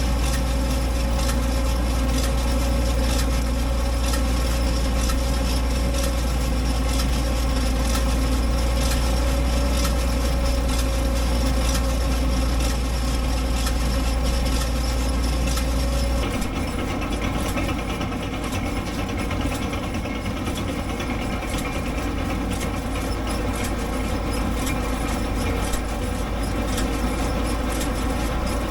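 International Harvester 706 tractor running steadily while pulling a John Deere 510 round baler in the field. About sixteen seconds in, the deep low hum drops away abruptly and a lighter steady engine sound carries on.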